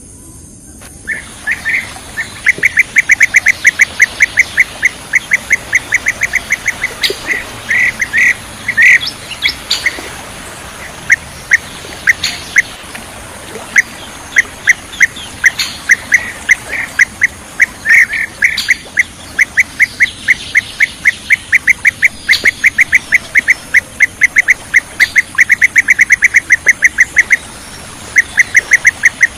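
Bee-eater (kirik-kirik) calls: short, loud chirps repeated rapidly, about three or four a second, in long runs broken by brief pauses. A faint steady high tone runs beneath them.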